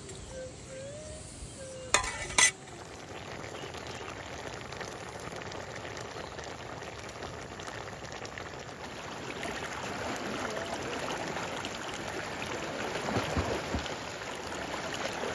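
Two sharp knocks, then food sizzling and frying steadily in a hot pan, growing a little louder towards the end.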